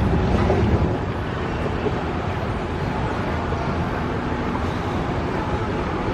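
Steady low rumble with a rushing noise, the sound of a vehicle in motion.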